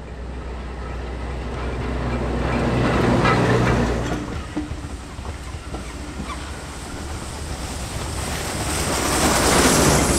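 A heritage train passing close by: a locomotive's steady low engine note swells to its loudest about three seconds in and fades, then the train rolls past with scattered wheel clicks, and a second loud rush builds near the end as the other end of the train goes by.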